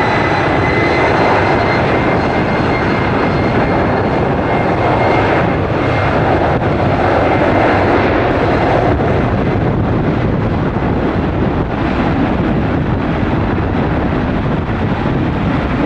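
Comac ARJ21-700's turbofan jet engines at takeoff power: a loud, steady roar with a high whine on top that fades out about four seconds in.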